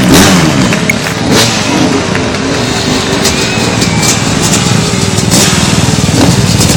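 Motorcycle engine revving, its pitch rising and falling repeatedly.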